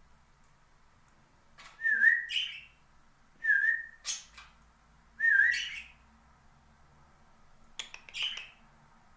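Pet parakeet giving four short whistled calls, each dipping then rising in pitch, with sharp clicks between them.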